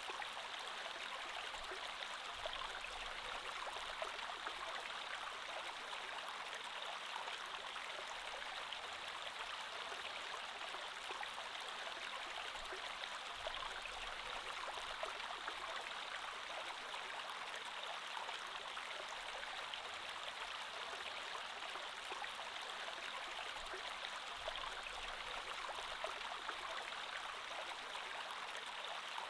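Creek water flowing over stones, a steady rushing babble.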